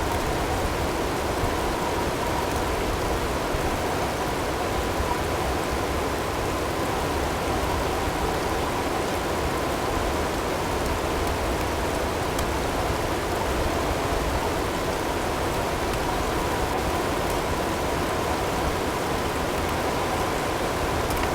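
Recorded blizzard ambience: an even, unbroken rush of wind-driven snow and hail, with a faint steady tone blended in underneath.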